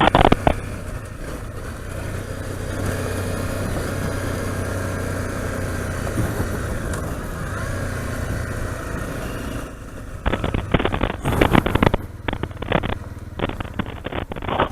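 Honda CRF single-cylinder dirt bike engine running steadily while riding, with wind noise. For the last few seconds choppy bursts of noise break in.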